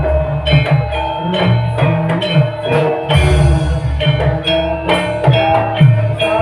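Live band music with a steady drum beat, a bass line, and plucked or struck melodic instruments.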